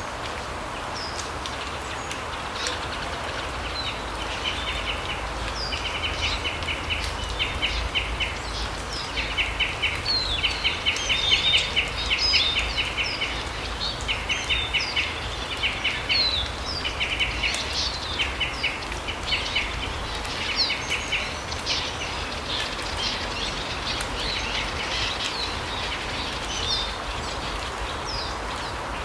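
Forest birds calling: a run of short, rapid trills, repeated many times over about the first two-thirds, with scattered high chirps throughout, over a steady low rumble of outdoor background noise.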